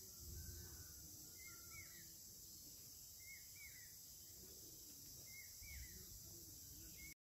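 Near silence outdoors: a bird repeats a short two-note chirp about every two seconds over a faint steady high hiss. The sound cuts off abruptly just before the end.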